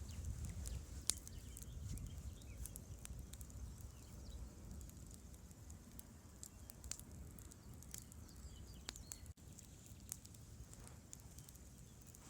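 Campfire of burning wood crackling: scattered sharp pops and snaps over a low rumble, the loudest a single sharp crack about a second in.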